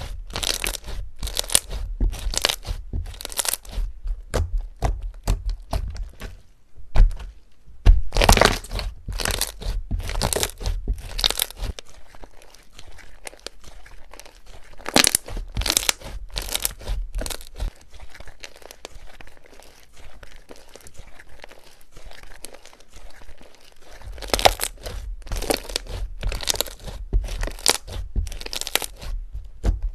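Crunchy slime being squeezed and pressed by hand, giving irregular crackling clicks that come in busy runs, with a quieter stretch in the middle.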